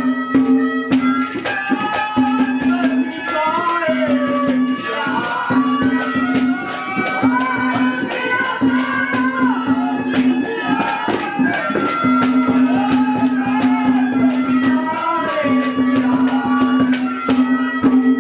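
Instrumental interlude of Haryanvi folk music: a hand drum plays a steady beat while a melody instrument winds above a low note that is held again and again.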